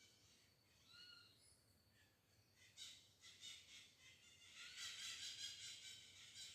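Birds calling: a few short whistled notes about a second in, then rapid high chattering calls from about three seconds on.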